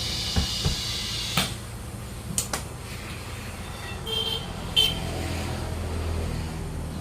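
A few sharp knocks and clanks, then two short high ringing tones about four seconds in, over a steady low vehicle hum.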